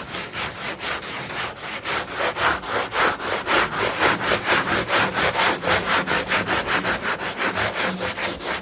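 Sandpaper on a hand sanding block scrubbed back and forth over an aluminum truck toolbox, about four to five quick strokes a second, a little louder in the middle.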